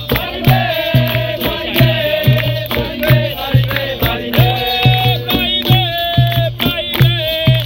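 Capoeira roda music: singing over a steady rhythm of percussion, with a low pitched note repeating about twice a second.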